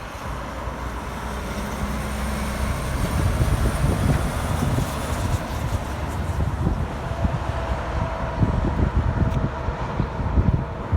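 Heavy truck's diesel engine running on the road, with a steady engine note for the first few seconds, then growing louder as it passes. Wind buffets the microphone.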